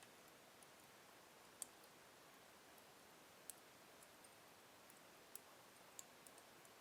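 Wood fire burning slowly in a fireplace, crackling sparsely: a few faint, sharp pops over a soft steady hiss, the clearest about one and a half, three and a half, five and a half and six seconds in.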